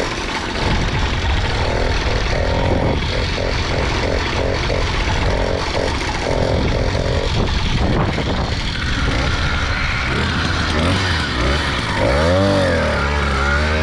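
Small motorbike engine running while riding, with wind noise on the microphone; near the end the engine pitch dips and then climbs again as the throttle is worked. The bike, fitted with a new sprocket, is running with no power.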